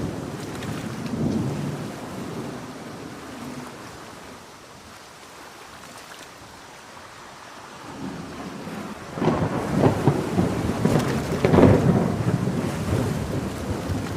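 Thunderstorm with steady heavy rain. A low roll of thunder fades over the first few seconds, then about nine seconds in a loud, crackling thunderclap breaks and rumbles on through the rest.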